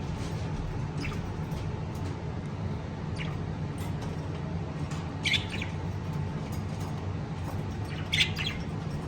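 Pet lovebirds chirping: short, shrill calls, faint at first and loudest in two quick clusters about five and eight seconds in, over a steady low hum.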